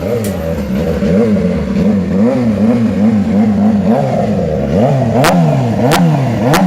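Suzuki GSX-R SRAD sport bike's inline-four engine being blipped up and down, about twice a second, with deeper revs in the second half. Three sharp pops ring out in the last couple of seconds.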